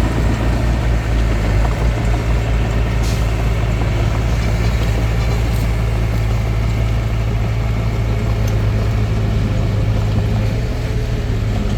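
Diesel engine of a Hitachi DX45M bulldozer running steadily with a deep, even drone.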